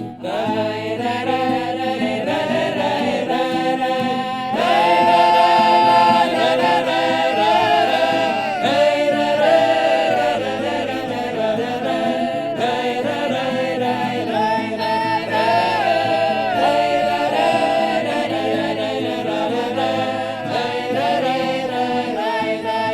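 A mixed group of men's and women's voices singing a Russian folk song in the Belgorod village style, several voice parts together with long drawn-out held notes.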